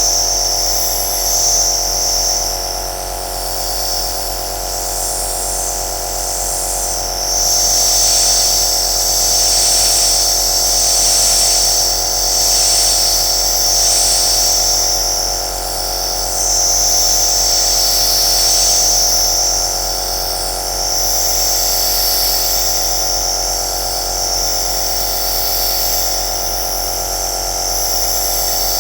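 Compressor nebulizer (home aerosol machine) running continuously: a steady motor hum with a high hiss over it that swells and fades every few seconds.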